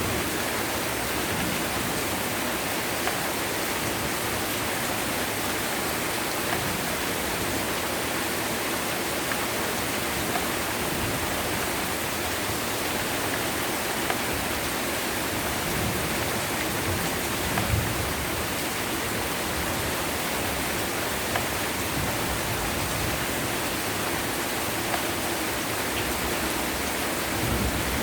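Heavy rain falling in a steady, dense hiss, with occasional sharp ticks. A brief low rumble comes about two-thirds of the way through and another near the end.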